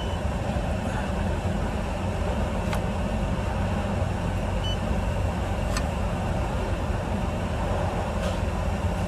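Steady low rumble of a car idling, heard from inside the cabin, with a few faint clicks and one short high electronic beep about halfway through from a handheld card payment terminal.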